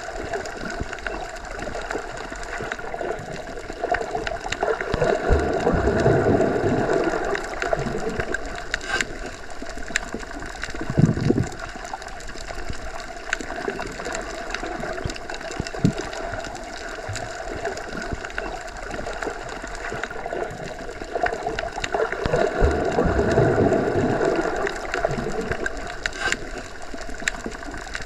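Underwater recording: a continuous wash of water noise with faint clicks, rising twice into a slow swell of rushing, gurgling water, with a short loud gush about eleven seconds in.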